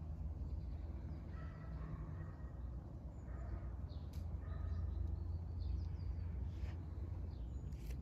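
Faint bird calls: a few short calls between about one and four seconds in, over a steady low outdoor rumble.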